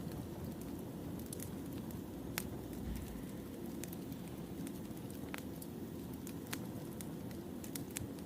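Wood fire burning: a steady low noise with irregular sharp crackles and pops from the burning firewood.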